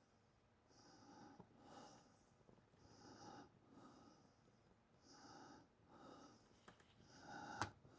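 Near silence, with faint breathing close to the microphone: soft paired breaths about every two seconds, and a small click near the end.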